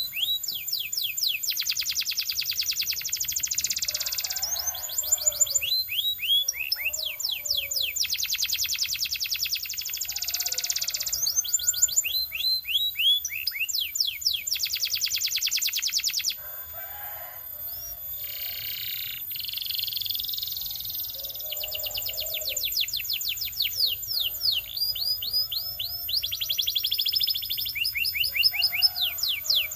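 Canary singing a long, continuous song of rapid trills: runs of quickly repeated falling notes alternate with dense, rolling tours. The song goes softer for a few seconds a little past the middle, then returns to full strength.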